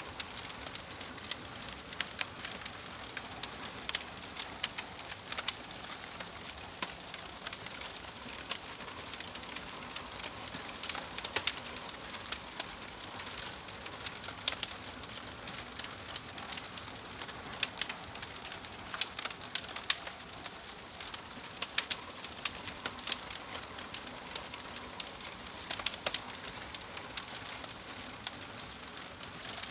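Fire crackling: a steady low hiss broken by frequent irregular sharp pops and snaps.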